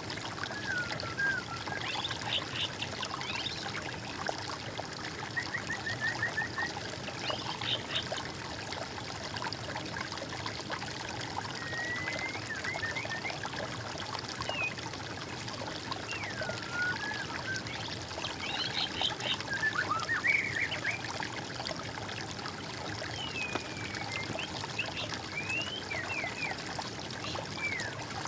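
Songbirds singing in short whistled phrases, slurred glides and quick trills, repeated every few seconds, over the steady trickle of running water.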